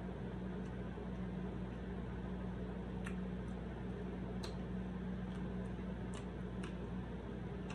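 Close-up eating sounds of someone chewing crinkle-cut fries and a fried chicken sandwich: a few scattered soft, wet mouth clicks over a steady low hum.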